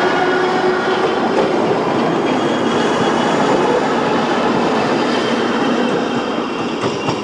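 Budapest tram running along its rails: a steady rumble of wheels on track, with a faint whine that fades within the first second and a few sharp clicks near the end.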